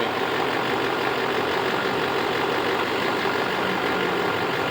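LBZ Duramax 6.6-litre V8 turbodiesel idling steadily, with nothing out of the ordinary to be heard.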